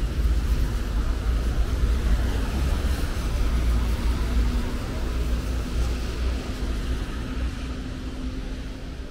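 City street traffic: a steady low rumble of vehicles with a faint engine hum, slowly fading out near the end.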